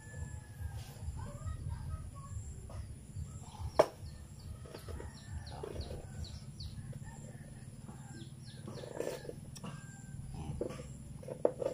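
Faint bird calls over a low steady hum, with one sharp click about four seconds in.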